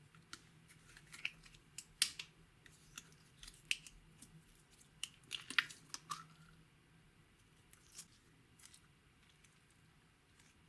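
Slime being worked by hand, giving irregular sticky clicks and crackling pops, thickest in the first six seconds and then thinning out.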